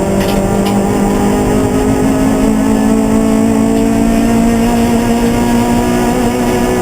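Race car engine running hard under load, its pitch rising slowly and steadily as it pulls through a single gear.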